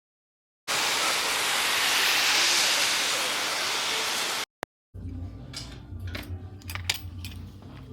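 A loud, steady rushing noise starts suddenly and cuts off abruptly after about four seconds. It is followed by a low steady hum with scattered light clinks and taps.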